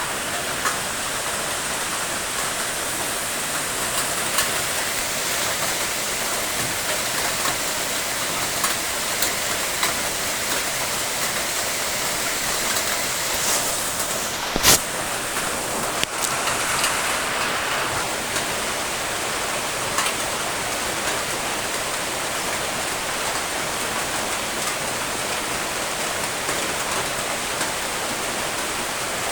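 Steady rain falling, an even hiss with scattered drop ticks, and one sharp loud click about halfway through.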